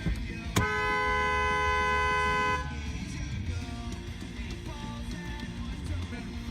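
A car horn honks once, held for about two seconds and cut off sharply, over background guitar music.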